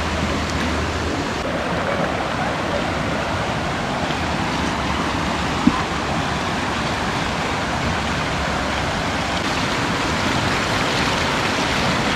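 Mountain stream rushing over rocks, a steady wash of running water. A single short knock sounds about halfway through.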